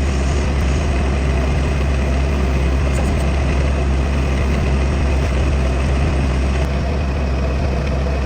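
Metal lathe running steadily, a continuous low mechanical hum with an even rumble of machine noise over it.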